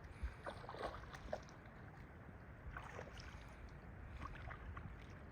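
Faint river water sounds: a few small splashes and drips against a low, steady rumble.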